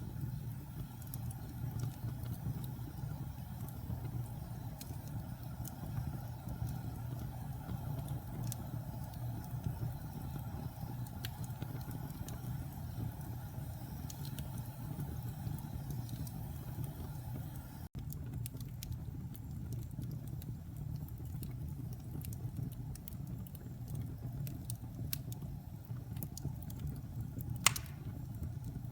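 Wood fire burning in a fireplace: a steady low rumble of flames with scattered small crackles and one sharper pop near the end.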